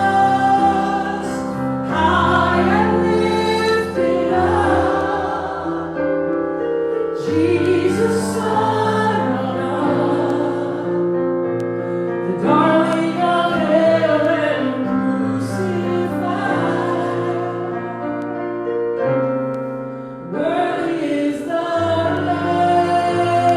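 Congregational worship singing with instrumental accompaniment: voices singing a slow worship song over sustained chords.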